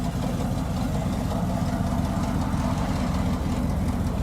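Hot rod engine running at low speed as the car pulls in, a steady rapid pulsing from the exhaust.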